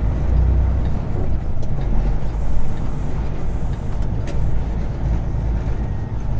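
Semi truck's diesel engine running with a steady low rumble, a few faint clicks over it.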